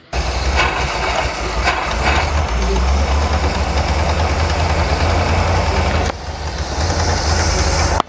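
Vehicle engine running loud and close, with a heavy deep rumble. It cuts in suddenly and briefly dips about six seconds in.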